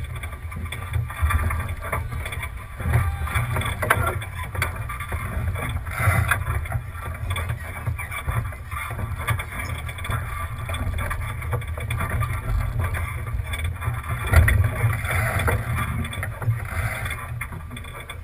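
Wind rumbling on a GoPro microphone, with water rushing along a sailboat's hull. The noise rises and falls unevenly throughout.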